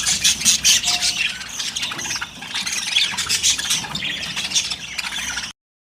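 Budgerigars squawking and chirping in a rapid, continuous chatter that cuts off suddenly near the end.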